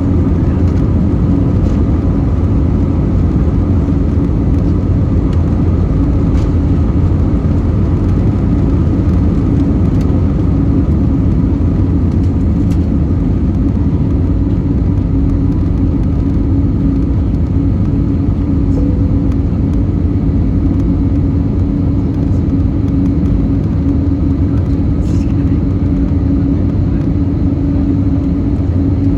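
Steady cabin noise inside an Airbus A320neo: a low drone from its CFM LEAP-1A engines and the airflow, with a steady hum running through it.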